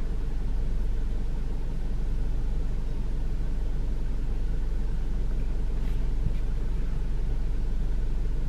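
Steady low rumble of a car's idling engine heard inside the cabin, with a couple of faint clicks about six seconds in.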